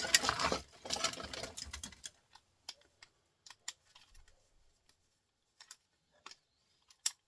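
Small metal and plastic printer parts clattering and clicking as they are sorted by hand: a dense rattling rummage for about the first two seconds, then scattered light clicks, with one sharper click near the end.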